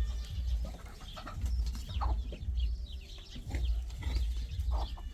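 Chickens clucking: a scatter of short calls over a low rumble that swells and fades about once a second.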